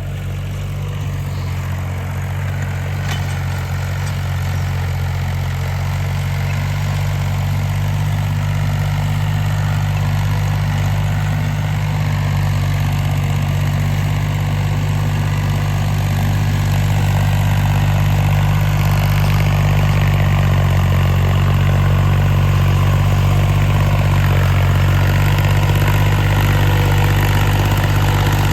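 Tractor diesel engine running steadily with a deep, even note, growing slightly louder over the first two-thirds.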